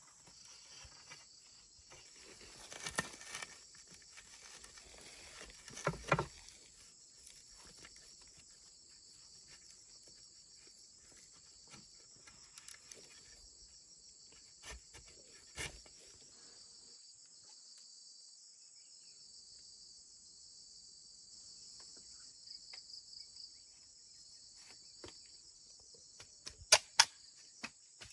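Insects, crickets or similar, chirping in a steady high chorus. A few sharp knocks or taps cut in, with the two loudest close together near the end.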